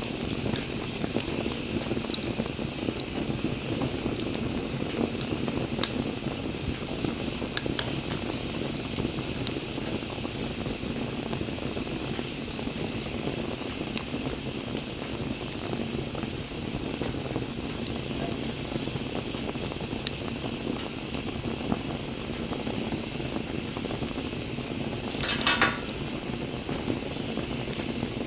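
Wood campfire burning: a steady hissing rush with scattered sharp crackles and pops, and a short louder hissing flare about 25 seconds in.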